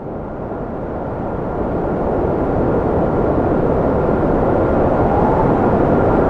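Wind blowing in a steady gusty rush, swelling up over the first couple of seconds. A faint thin whistle runs through it, and a howling tone rises and falls near the end.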